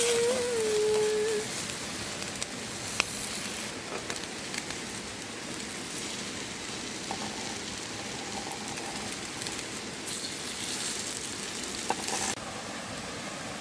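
Food sizzling as it fries on a hot flat stone over a campfire, with a few light clicks. Near the end the sizzle cuts off abruptly into a steadier hiss.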